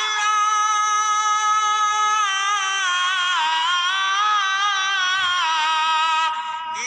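Music from a political campaign song: a long, drawn-out melodic line with a gentle wavering, held for about six seconds and stepping down in pitch midway, before the song breaks off briefly near the end.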